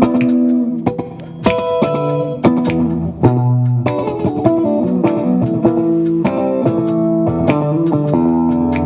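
Band playing live with electric guitar and bass guitar, with regular drum-like hits keeping a beat.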